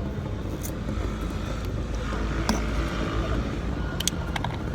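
Steady low background rumble with a few brief, light clicks scattered through it.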